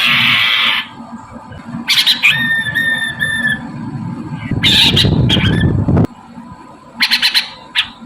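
Poksay mandarin laughingthrush calling. A harsh, raspy call opens, then comes a clear whistled note held for over a second, another harsh call, and a quick run of sharp chattering notes near the end.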